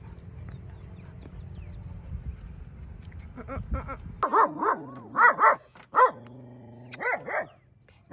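A dog barking repeatedly in short runs of barks, starting about three and a half seconds in, after a low steady rumble.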